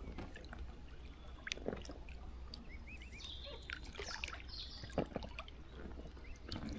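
Water trickling and dripping, with scattered small clicks and a few short high chirps in the middle.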